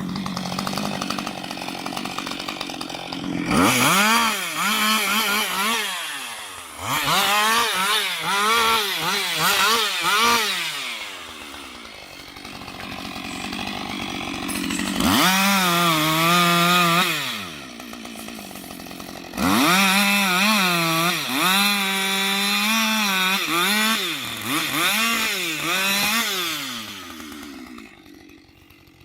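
Husqvarna 560 XP two-stroke chainsaw idling, then revved up and cutting into a tree trunk in four bursts, the last one long. Its pitch sags under load and recovers, and it drops back to idle between cuts before dying away near the end.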